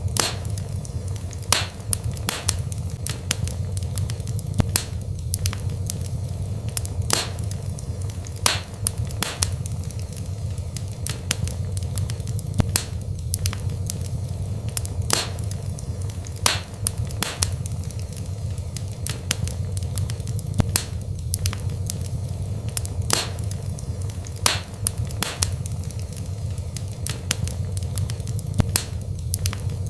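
Wood fire burning, with a steady low rumble of flame and sharp, irregular crackles and pops about once a second.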